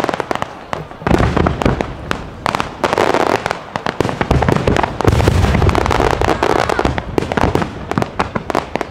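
Fireworks display: aerial shells bursting in repeated deep booms, about a second, three seconds and five seconds in, over dense, continuous crackling.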